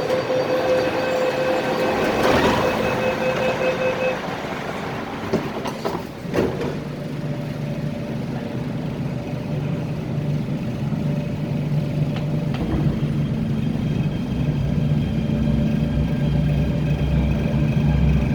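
Inside an MTR Tung Chung Line K-Train (Hyundai Rotem EMU): a steady electronic tone sounds for the first four seconds, and a single knock comes about six seconds in. Then the train's low running hum and rumble, with a motor whine beginning to rise near the end.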